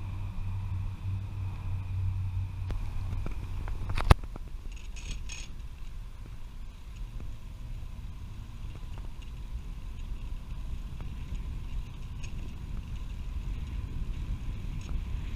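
Bicycle riding noise: a steady rumble of tyres and wind, with a low hum through the first four seconds and a sharp click about four seconds in.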